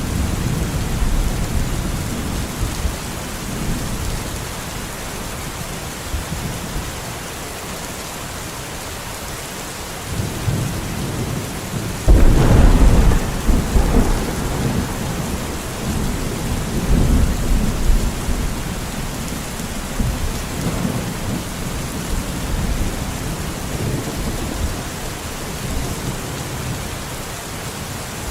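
Steady heavy rain with rolling thunder. A sudden loud thunderclap comes about twelve seconds in and rumbles on for several seconds before settling back into the rain.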